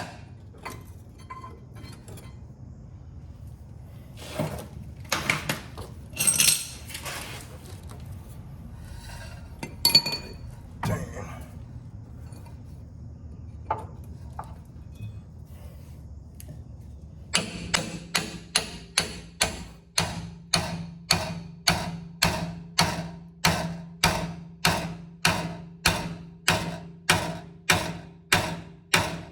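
Scattered metal clanks and knocks, then from a little past halfway a steady run of ringing hammer blows, about one and a half a second, on a pickle fork wedged into a ball joint to split it from the steering knuckle.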